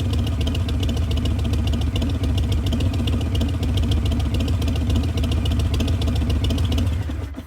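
Harley-Davidson Milwaukee-Eight V-twin idling through Vance & Hines Twin Slash mufflers, a steady, even loping pulse. It falls away about seven seconds in.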